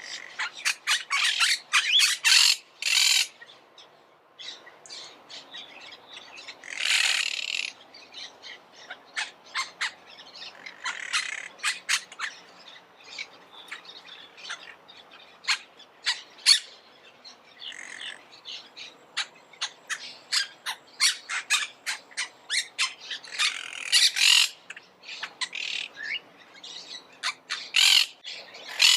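Monk parakeets calling: a rapid, continuous run of short, harsh squawks and chatter, with louder dense clusters of calls every few seconds.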